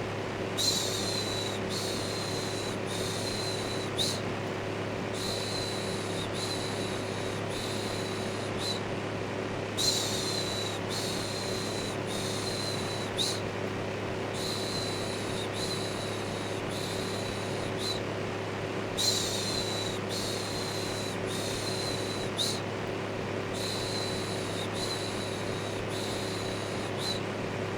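Steady electric fan whir with a low hum, overlaid by a rhythmic shushing "shhh" in runs of about four quick shushes, each run about three and a half seconds long with a short pause between runs.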